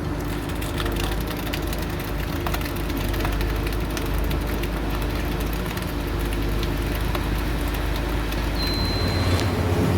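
Heavy construction machine's diesel engine running steadily, with many scattered sharp cracks and snaps over it, and a brief high tone near the end.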